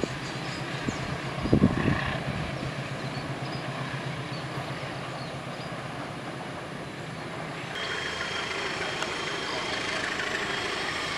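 Freight train wagons rolling away on the rails, a steady fading rumble with two heavy clunks in the first two seconds. About eight seconds in it gives way to a steady outdoor hiss with a faint high whine.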